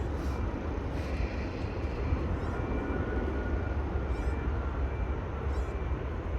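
Jet airliner engines running at a distance: a steady rumble and hiss with a faint engine whine, over a low buffeting rumble of wind on the microphone.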